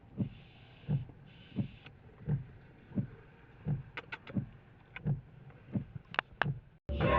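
Inside a moving car: a regular soft thump about every 0.7 seconds, with two short swishes early and a few sharp clicks later. Music starts just before the end.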